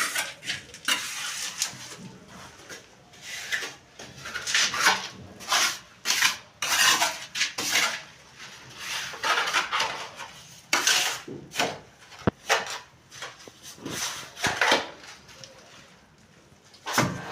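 Irregular scraping, rubbing and clinking of hand tools and metal fittings during plumbing work, with a sharp knock about twelve seconds in.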